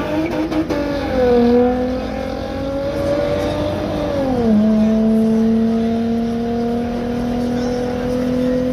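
Drag-racing car's engine at full throttle down the strip. Its pitch climbs and drops sharply at gear changes, about a second in and again about four seconds in, then rises slowly as it pulls away.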